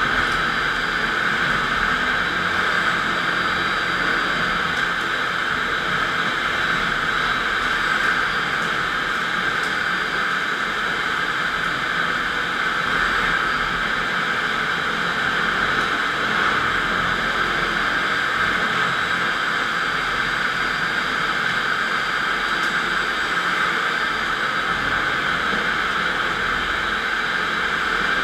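FastPrep electric concrete floor grinder running steadily, its diamond grinding plates cutting the concrete floor in an even, unbroken noise.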